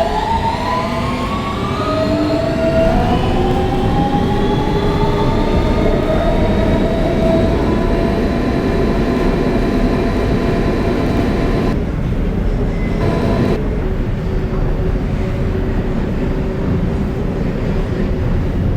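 R160B subway train's Siemens AC propulsion whining in several tones that rise together as the train accelerates from a stop, then level off into a steady running hum. A constant rumble of wheels on rail runs under it.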